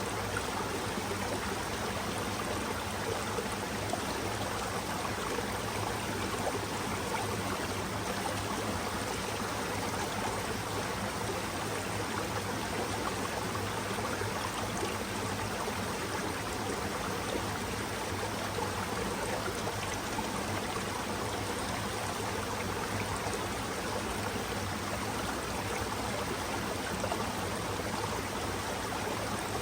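Mountain stream running over rocks: a steady, even rush and babble of flowing water.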